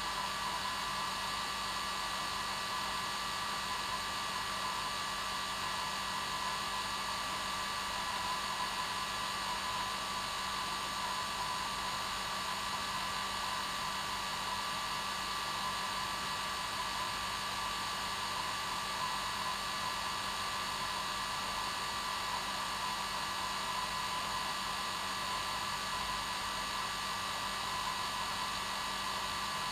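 Hair dryer running steadily on its normal setting: an unchanging whooshing hiss with a steady motor hum.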